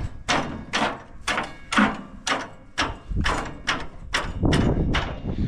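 Sisal baler twine being pulled through by hand in quick strokes, a run of short rasping swishes about two to three a second.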